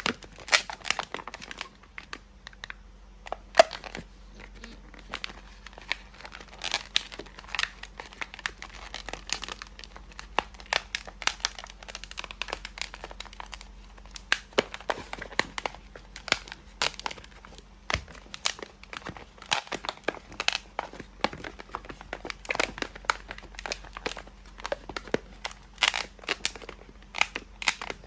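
Modelling balloon being handled and twisted, giving irregular rubbing crinkles and squeaks.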